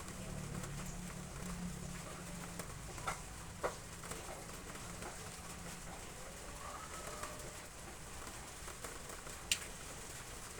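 Steady rain hiss, with a bird calling a few times in the middle and three sharp taps or knocks, the last near the end.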